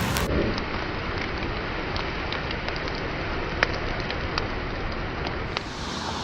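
Steady rain falling, with scattered sharp drop taps close to the microphone.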